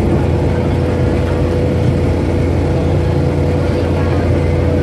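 Passenger train running, heard from inside a carriage with the window open: a loud, steady rumble with a constant hum.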